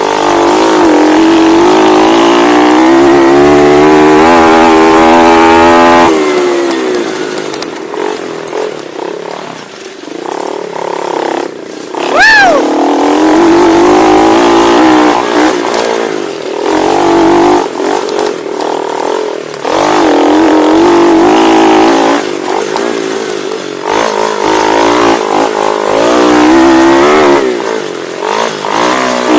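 Pit bike engine under race throttle, revving up and easing off over and over as the rider accelerates and backs off, with a longer throttle-off spell a few seconds in.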